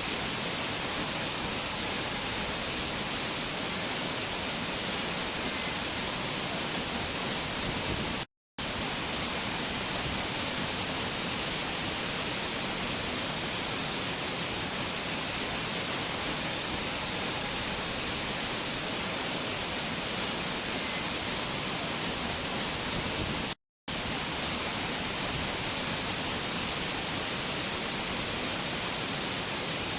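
Steady, even rushing of a waterfall, a constant hiss of falling water. It cuts out twice to silence for a fraction of a second, once about a third of the way in and again near three-quarters through.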